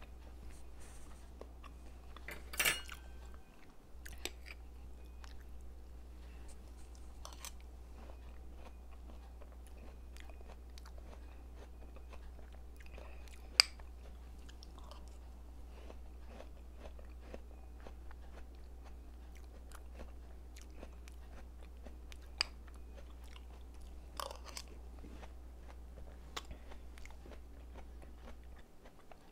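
Close-miked eating: chewing and crunching, with a few sharp clicks of a spoon against a small cup. A steady low hum runs underneath and stops shortly before the end.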